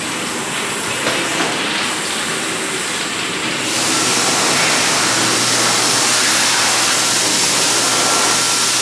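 Electric hand dryer blowing: a steady rush of air that gets louder a little over a third of the way in, with a thin steady whine on top.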